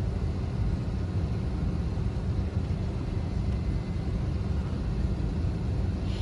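Steady low rumble inside an airliner cabin on the ground, with its engines running as it is towed out.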